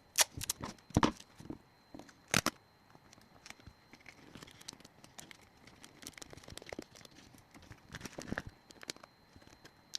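Adhesive tape being pulled off and torn, with paper crinkling as it is handled: a few sharp rips in the first few seconds, then softer scattered crackling.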